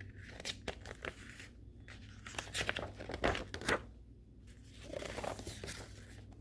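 Paper picture book being handled with its pages turned: a string of irregular paper rustles and crinkles, thickest about two and a half to four seconds in.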